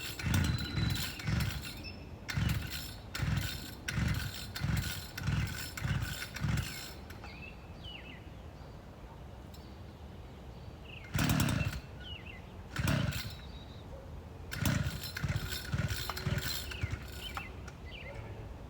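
Petrol post hole digger's recoil starter being pulled again and again, the cord rasping out and the engine turning over in short chugs without catching. A long run of pulls comes first, then two single pulls, then a shorter run.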